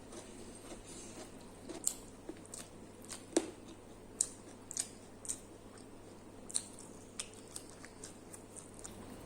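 Close-up eating sounds of a person chewing, with irregular wet mouth clicks and smacks. The loudest click comes about three and a half seconds in.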